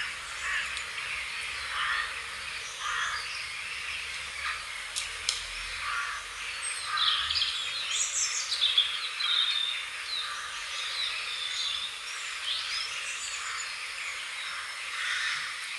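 Several birds singing and calling at once: many short chirps and calls, with a busier run of high chirps and trills in the middle.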